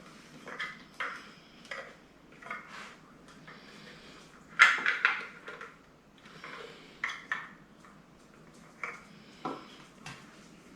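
Hard plastic stick-vacuum parts being handled and fitted together: a run of clicks, knocks and light clatter, loudest about four and a half seconds in.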